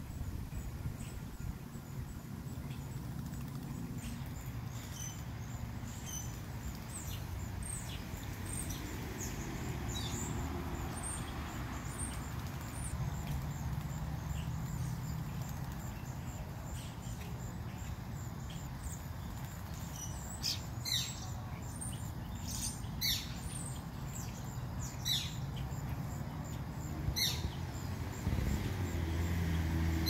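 Small birds giving short, sharp chirps, scattered at first and more frequent near the end, over a steady low background hum.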